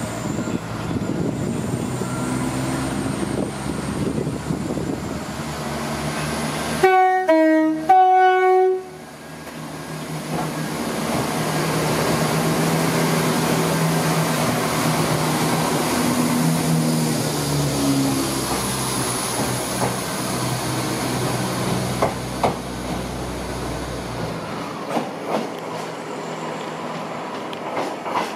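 Class 170 Turbostar diesel multiple unit pulling into the platform, sounding two short blasts on its horn about seven seconds in. After that its diesel engines run with a note that rises and falls, and near the end there are a few sharp clicks from the wheels over the rail joints.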